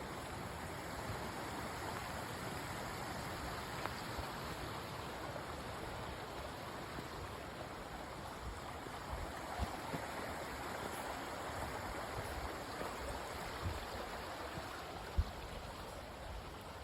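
Steady rushing of a mountain creek, with a few low thumps, the sharpest about fifteen seconds in.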